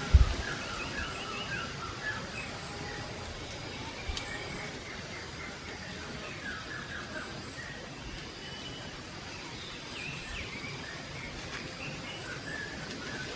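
Small birds chirping in short repeated runs of notes, in several bursts, over a steady outdoor hiss, with a single low thump just after the start.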